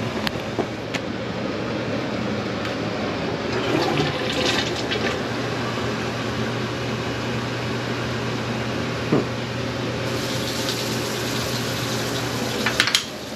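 Toilet flushing and its tank refilling, a steady rush of running water over a low hum that stops near the end, with a few clicks just before the end.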